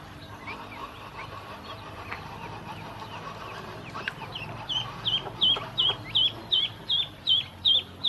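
Ducklings peeping: scattered faint peeps, then from about halfway a run of about ten loud, high peeps at roughly three a second.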